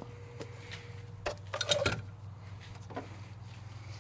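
A short clatter of knocks and rattles from parts being handled while the engine's intake piping comes apart, loudest from about one and a half to two seconds in, with one more knock near three seconds.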